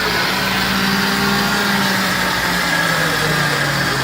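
Electric motor driving a Cessna aircraft generator on a bench trainer, running with a steady hum and a fainter high whine, its pitch wavering slightly.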